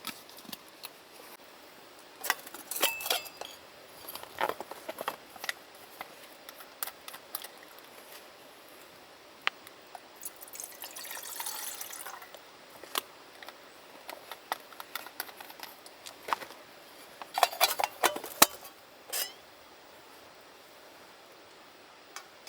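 Scattered clinks and taps of tableware and utensils, with a short pour of liquid about halfway through and a quick cluster of clinks a little later.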